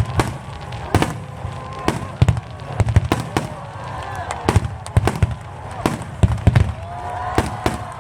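Aerial fireworks bursting in a rapid, irregular series, about two sharp booms a second with smaller pops between.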